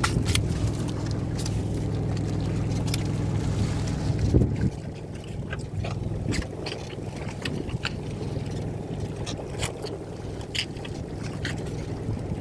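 Fishing boat's engine running steadily, easing down to a lower, quieter run about four and a half seconds in, with scattered clicks and knocks on board.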